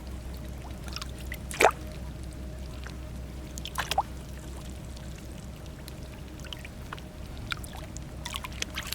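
Shallow seawater trickling and dripping as shellfish are picked out of it by hand, with two sharp clicks of shells knocking together, about one and a half and four seconds in.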